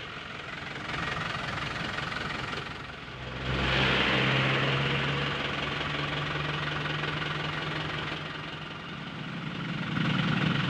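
Truck engine running, growing louder about three and a half seconds in and then holding a steady low hum, swelling again near the end.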